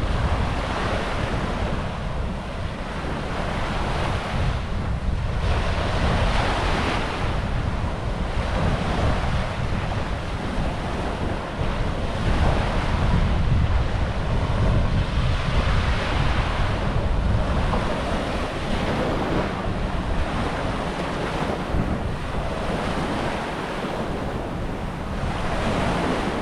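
Sea waves breaking and washing up the shore in recurring swells every few seconds, with wind buffeting the microphone in a steady low rumble.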